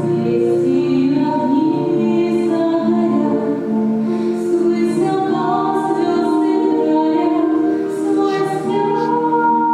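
Music: several voices singing a slow melody together in long held notes.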